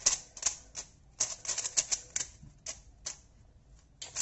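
A 3x3 speed cube being turned quickly by hand: bursts of plastic clicks as the layers snap round, with a pause of about a second late on before the turning starts again.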